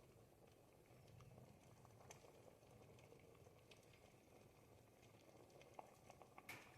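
Faint bubbling of a pot of ribollita, a thick Tuscan bread-and-vegetable soup, simmering, with small scattered pops as bubbles burst through the thick soup; a sharper pop comes about six and a half seconds in.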